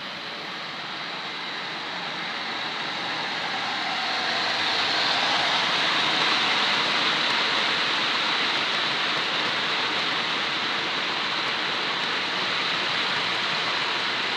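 Model diesel locomotive running along the layout's track, a steady electric motor whirr with wheels rolling on rail, growing louder over the first few seconds as it draws near and then holding steady.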